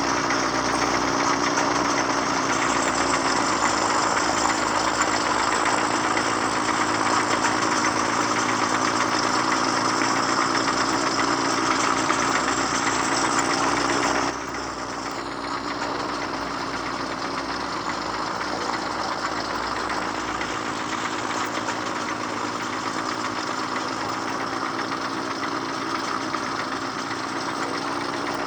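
Excavator's diesel engine running steadily, its sound dropping abruptly to a quieter, steady level about halfway through.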